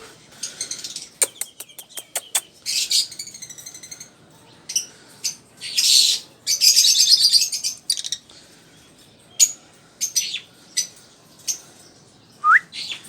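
Cage birds chirping and calling in short, scattered bursts and trills, with a run of sharp clicks a second or two in and a short rising whistle near the end.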